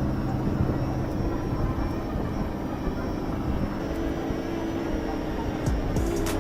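Steady droning hum of an aircraft-type motor with a thin high whine over it, and a few sharp clicks near the end.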